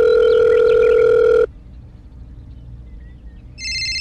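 Telephone ring-tone sound effect: a steady, low ringing tone that stops about a second and a half in, a pause, then a second, higher-pitched ring tone that starts near the end.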